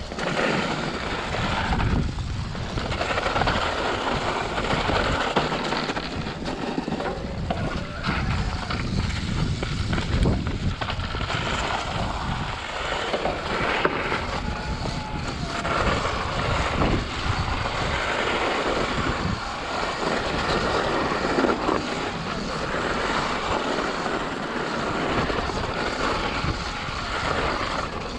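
Wind buffeting the microphone of a moving rider, with a steady low rumble underneath, rising and falling in gusts.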